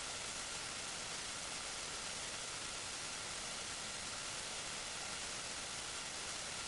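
Steady hiss of recording noise, even and unchanging, with a faint thin whine running under it.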